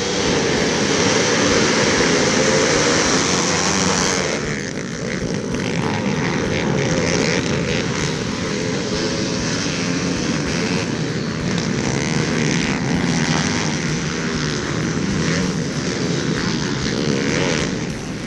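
Small single-cylinder pit bike engines running hard at high revs, with the sound changing abruptly about four seconds in.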